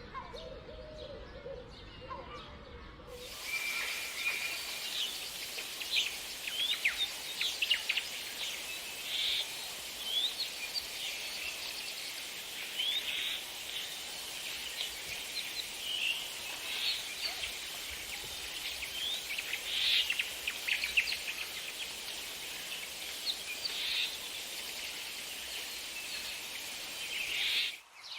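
Birds calling. A low, repeated call fills the first three seconds, then it cuts to a busy chorus of short, high chirps and trills over a steady hiss.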